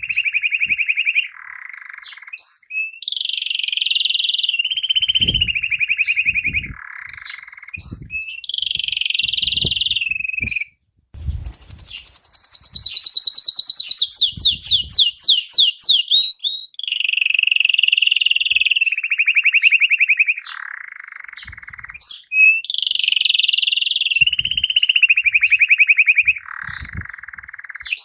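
Domestic canary singing a long, continuous song of fast trills and rolls, its phrases changing every second or two. The song breaks off briefly about eleven seconds in.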